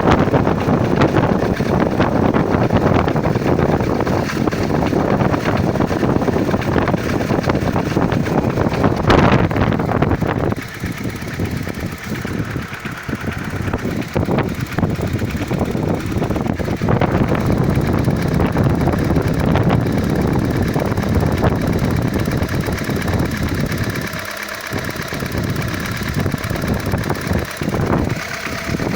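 Opel C16SE 1.6-litre four-cylinder petrol engine running with a rapid knocking from the cylinder head, whose cause is unknown.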